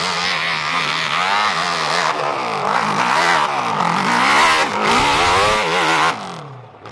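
Racing motorcycle engine revving hard, its pitch rising and falling over and over through gear changes, then dropping away about six seconds in.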